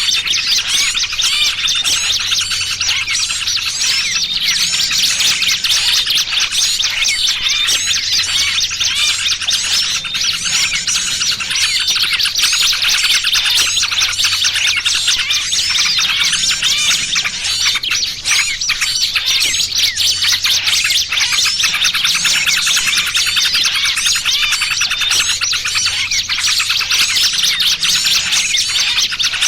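Dense, unbroken chorus of agitated small-songbird chirping: a bird-lure mix of yellow-vented bulbul (trucukan) calls combined with the alarm calls of small birds in distress, used to draw wild small birds in.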